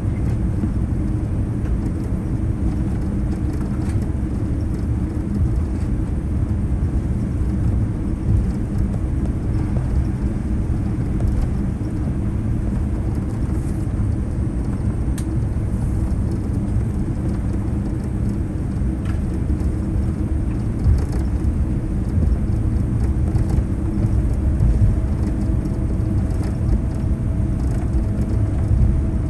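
Steady low rumble inside a Boeing 787-9 cabin as the airliner taxis after landing, with engines at idle and the wheels rolling over the taxiway. A faint steady hum joins near the end.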